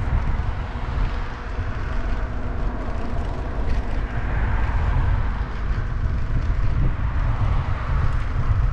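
Steady riding noise from a moving fat-tire e-bike: a low wind rumble on the microphone over the hiss of tires on the road.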